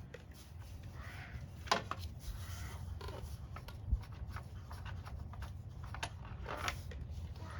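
Hand tools working the screws of a motorcycle headlight case: faint scraping and handling with a few sharp clicks, over a low steady hum.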